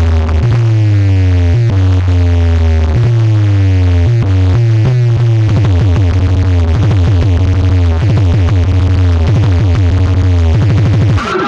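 Loud electronic dance music played through a sound-service loudspeaker system, with a heavy held bass and repeated falling synth glides; about halfway through it changes to short, choppy synth notes.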